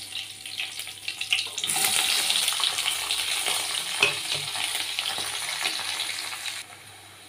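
Chopped onions go into hot oil with curry leaves and popped mustard seeds. A soft crackle turns, about two seconds in, into a much louder steady sizzle of frying with small ticks, which breaks off near the end.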